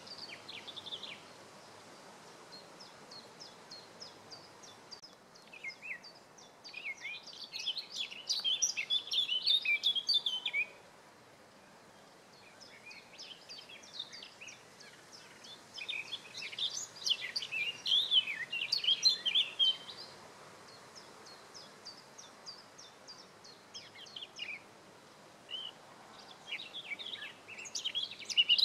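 A songbird singing three phrases about ten seconds apart. Each phrase begins with a run of thin, high ticking notes and builds into a loud, jumbled warble; the last is cut off at the end.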